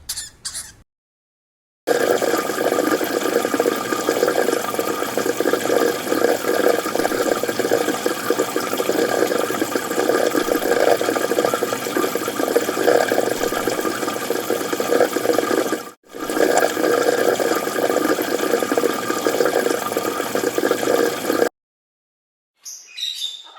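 Steady rushing, bubbling water that breaks off for a moment about two-thirds of the way through and stops shortly before the end.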